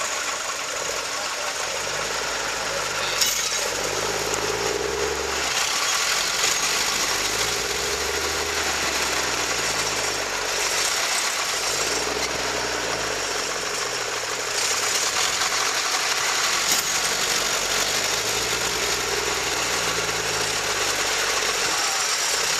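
Tractor engine labouring under heavy load, its pitch rising and falling over and over as it pulls a dump trailer loaded with 12 m³ of gravel through mud. Two brief sharp knocks stand out, one a few seconds in and one later on.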